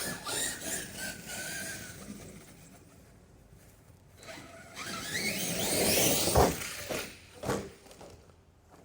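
Arrma Kraton RC truck's brushless electric motor whining up steeply in pitch as it accelerates, then a hard impact about six and a half seconds in and a smaller knock about a second later, as the jump attempt ends in a failed landing.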